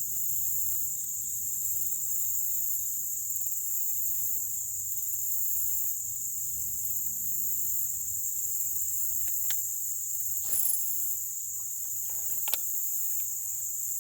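A steady, high-pitched chorus of insects keeps up throughout. In the second half a few brief clicks and knocks break in, with the loudest two near the end.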